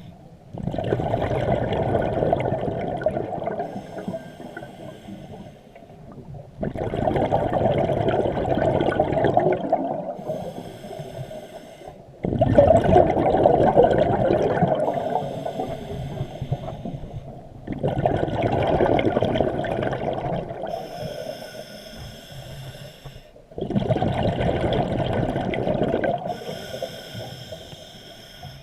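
Scuba diver breathing through a regulator underwater, five slow breath cycles. Each breath is a short hiss on the inhale, then a rush of exhaled bubbles that starts suddenly and fades.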